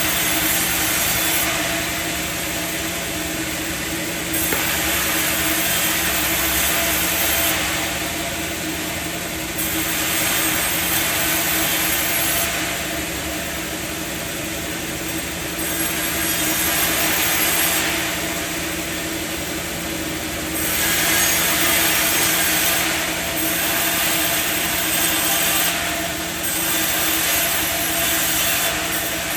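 Sawmill machinery running steadily with a constant hum, under a hissing saw noise that swells and fades every few seconds as wood is cut.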